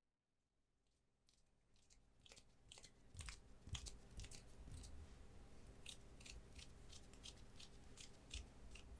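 Faint, crisp clicks and crinkles, a few a second, starting about a second and a half in: hands tapping and handling card-product packaging.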